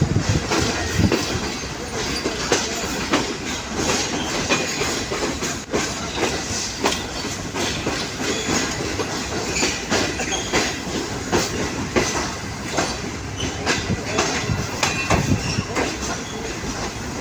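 Passenger train's wheels clattering over rail joints and points as it rolls into a station, a dense, uneven run of clicks and knocks over a steady rumble, with a brief thin squeal of wheel on rail.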